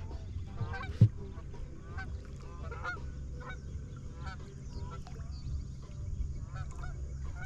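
Birds calling repeatedly, many short calls one after another, over a steady low hum. A single sharp thump about a second in.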